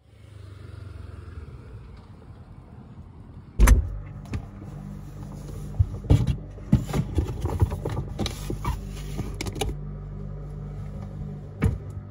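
A steady low rumble like a running vehicle, with a loud knock about three and a half seconds in followed by a run of sharp clicks and rattles.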